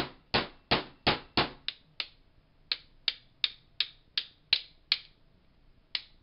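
Rapid series of light hammer taps on a hard part, about three a second, pausing briefly about two seconds in and again near the end.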